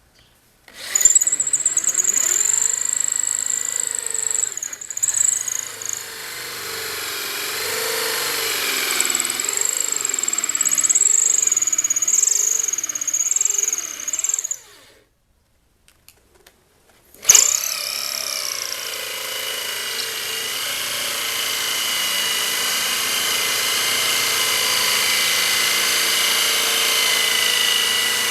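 Electric power tool working wood, running in two long stretches with a stop of about two seconds partway through. Its pitch wavers during the first run, and it starts up sharply again for the second.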